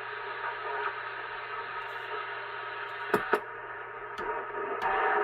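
President Washington CB base station's speaker giving off receiver static, a steady hiss with a few faint steady tones in it. Sharp clicks come twice in quick succession a little past three seconds in, then once around four and once around five seconds.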